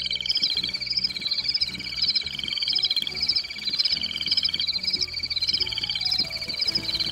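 A night-time chorus of frogs and insects: a dense, steady trilling with short high chirps repeating about twice a second.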